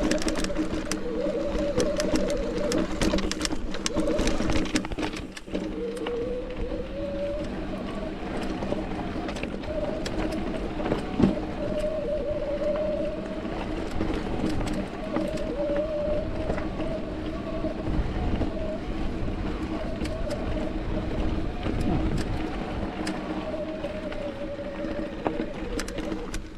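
Mountain bike riding over rough trail: a pitched hum that wavers up and down with speed, over rumbling tyre and wind noise and frequent short clicks and rattles from the bike.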